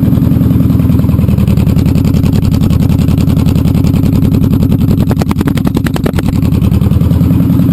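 Honda VTX1800 V-twin running through a 3-inch Road Burner aftermarket exhaust at a loud, lumpy idle. Its note changes briefly about five seconds in, then settles back to idle.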